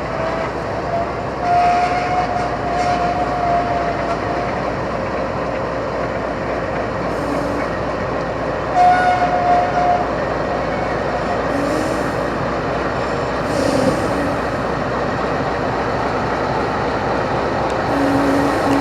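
CSX freight train of single-stacked container cars rolling by with steady wheel and rail noise. Twice a single high, steady tone rings for a few seconds, and there are several short clanks and squeaks.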